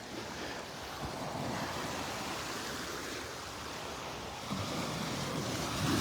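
Surf washing onto a sandy beach, a steady wash that grows slightly louder about a second in.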